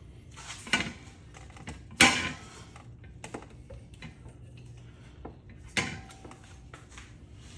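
Metal clinks and knocks of hand tools against the parts of a ceiling fan being dismantled, working at a stubborn screw: three sharper knocks, the loudest about two seconds in, with a few lighter ticks between.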